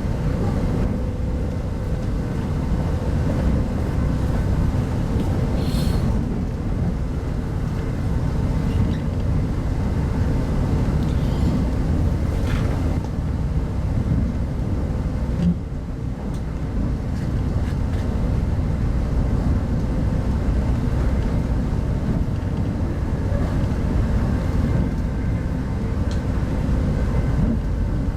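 Steady low rumble of a passenger train running along the line, heard from inside a 25T-series coach, with a faint steady hum and a few light clicks and knocks.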